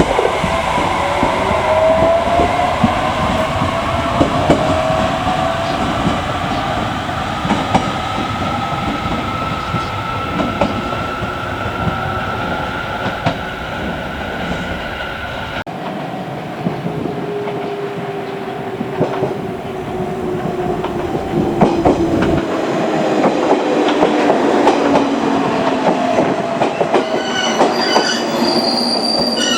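Electric train motors whining with wheel-on-rail clatter: the whine rises in pitch as a train pulls away, then after a sudden change about halfway a falling whine as a train slows down. High-pitched wheel or brake squeal comes in near the end.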